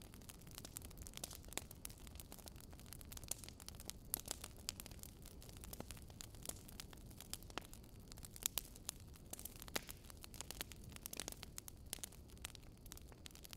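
Wood fire in a fireplace crackling: irregular sharp pops and snaps over a soft, steady low rush of the flames.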